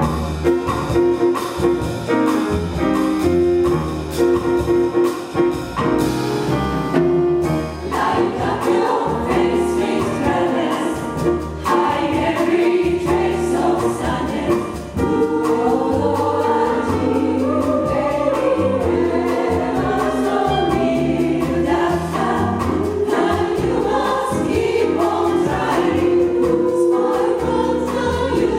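Jazz chorus singing in harmony with a small band behind it, live.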